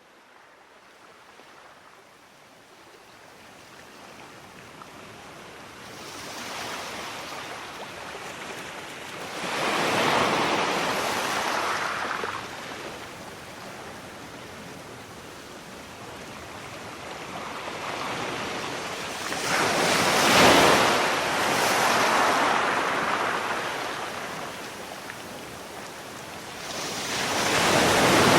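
Sea waves breaking on a shore, starting faint and building; three waves crash about ten seconds apart, each swelling to a rush of surf and then ebbing away.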